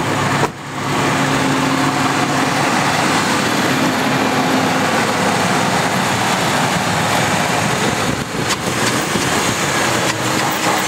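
Pickup truck's 4.2-litre engine idling steadily, just started on a battery swapped in from another truck. The sound dips briefly about half a second in.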